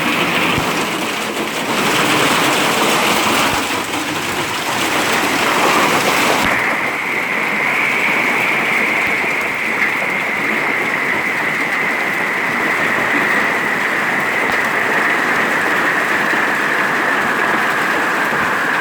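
A hail storm pelting down in a dense, steady hiss. About six seconds in the sound abruptly turns duller, and a steady tone slowly sinking in pitch runs under the hiss.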